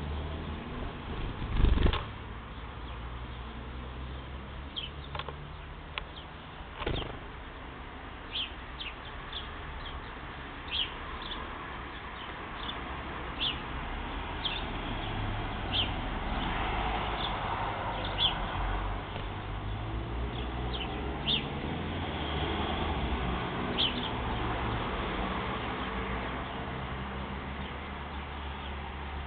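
Birds chirping: short, high chirps every second or so, with a loud thump about two seconds in and a smaller one around seven seconds.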